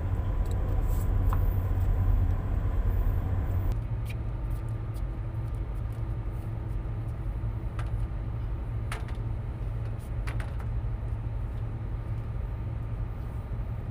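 Boat engine running steadily, a low drone, with a slight drop in level about four seconds in and a few faint clicks.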